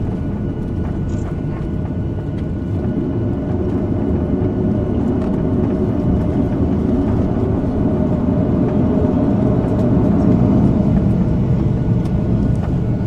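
Cabin noise inside a Boeing 737-800 during its descent: a steady rumble of CFM56 engines and airflow, with a few faint steady tones above it. It swells a little toward the end.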